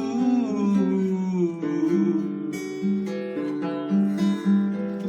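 Acoustic guitar playing a melody of picked notes over a repeating bass note. A sung note wavers and fades out in the first second and a half.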